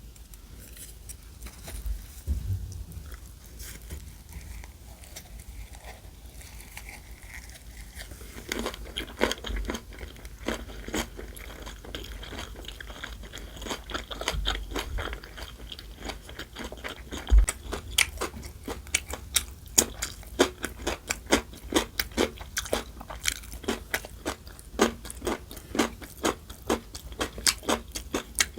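Close-miked eating: chewing with crunching bites, sparse for the first few seconds, then a steady run of crunches about twice a second through the second half.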